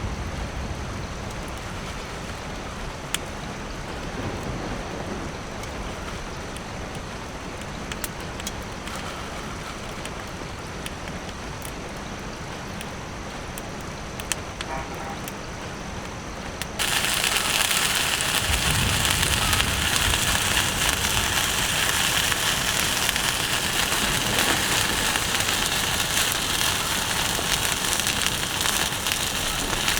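Rain falling, with scattered sharp crackles in the first half. About seventeen seconds in, a much louder, hissier rain sound takes over abruptly and holds steady.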